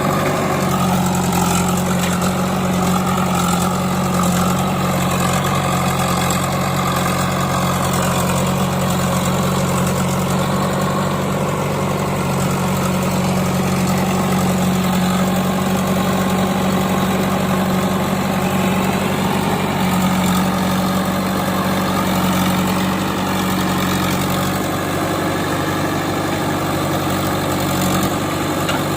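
Diesel engine of a backhoe loader or tractor idling steadily.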